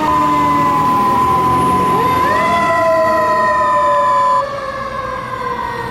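Fire engine's mechanical siren (Federal Q) coasting down in pitch, then wound up again about two seconds in and slowly winding down. A steady high single tone sounds over it for the first four seconds or so.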